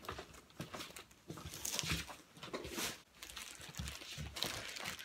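A package being opened by hand: irregular rustling, crinkling and tearing of its wrapping.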